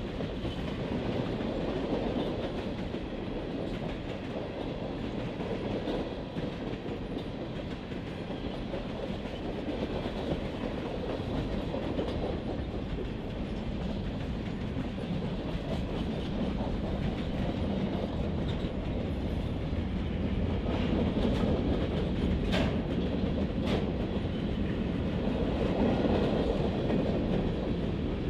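Marquette Rail freight train rolling past, with the steady rumble of the cars and the clickety-clack of their wheels over the rail joints, plus a few sharp clicks.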